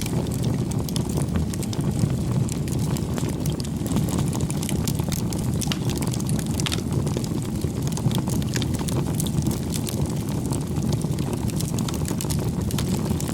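Wood fire burning: a steady low rush of flames with frequent irregular crackles and small pops.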